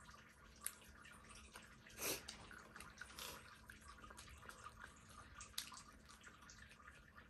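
Faint eating sounds at a meal table: a few sharp little clicks and a brief louder chewing or slurping noise about two seconds in.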